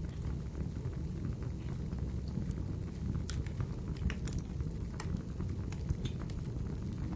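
Wood fire crackling in a fireplace, with scattered sharp pops, several close together in the middle, over a steady low rumble of flames and rain.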